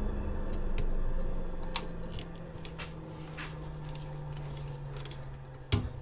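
A motor hum slowly falling in pitch, as a machine spins down, with scattered light clicks and a sharp knock near the end.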